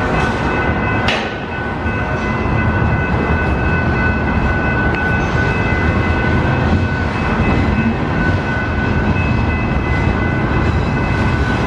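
Freight train cars rolling past: a loud, steady rumble and rattle of wheels on rail, with a few steady high-pitched ringing tones held throughout.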